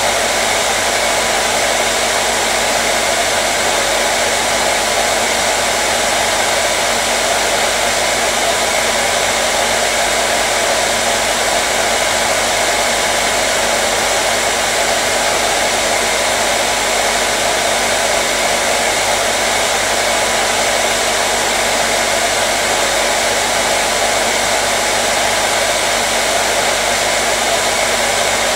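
Electric hair dryer running steadily: an even, unbroken rushing of fan and blown air with a faint steady hum under it.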